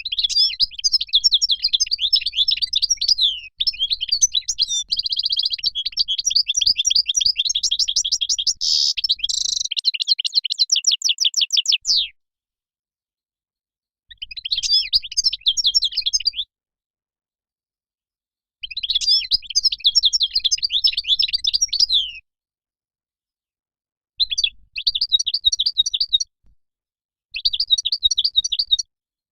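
European goldfinch singing its rapid, twittering, trilling song: one long phrase of about twelve seconds, then four shorter phrases of two to four seconds each, with silent gaps between.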